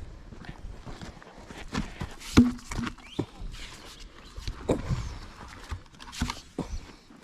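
Campfire burning, with irregular sharp cracks and pops from the wood, the loudest about two and a half seconds in.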